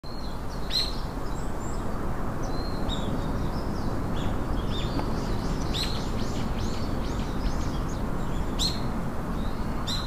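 Birds chirping in short, scattered calls over a steady low background rush of noise.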